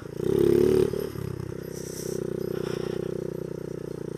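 Honda Z50 mini bike with a 70cc racing engine, given a burst of throttle in second gear for about the first second to pop a small wheelie, then dropping back to a steadier, quieter run.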